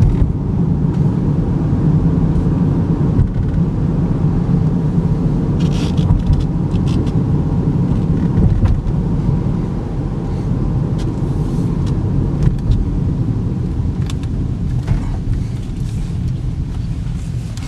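Steady road and tyre rumble with engine hum inside the cabin of a 2013 Chevy Equinox cruising at near-highway speed, with a few faint clicks.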